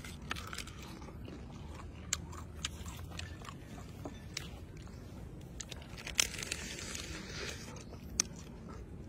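A person biting and chewing grilled frog, with scattered sharp crunches and a longer stretch of crunching a little past halfway.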